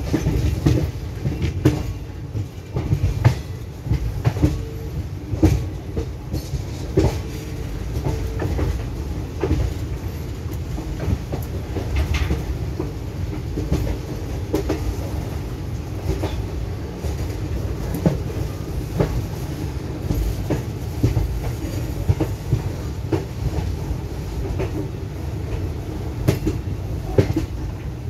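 Express train coach running along the track, heard from on board: a steady low rumble with irregular clicks and knocks from the wheels running over rail joints and points.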